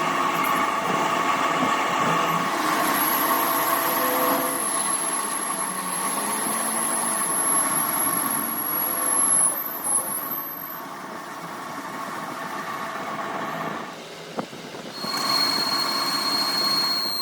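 Workshop machinery running steadily, with a high whine for several seconds. The sound drops and changes abruptly about fifteen seconds in, when a new steady tone starts.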